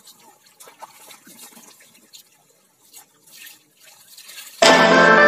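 Faint splashing and dripping of water as hands scoop and splash water from a bathing container. About four and a half seconds in, music cuts in suddenly and loudly.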